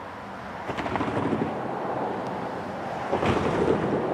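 Train approaching on the tracks: a rushing rumble of wheels on rail that grows louder, with a few sharp clicks.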